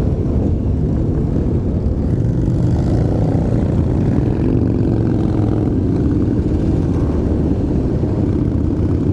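Motorcycle engines running together in a large pack, a steady low rumble with engine pitch rising and falling about three to six seconds in.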